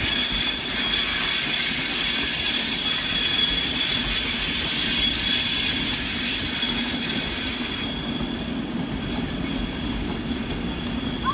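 Class 390 Pendolino electric train rolling past on its way out of the station, with a steady high-pitched squeal over a low rumble; the squeal fades after about eight seconds.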